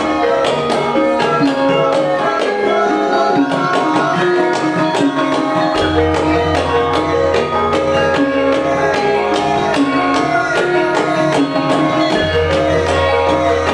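Javanese gamelan ensemble playing: bronze metallophones ring out steady pitched notes over a quick, even beat, with the hand-struck kendang drum leading. A deep gong stroke sounds about six seconds in, and another near the end.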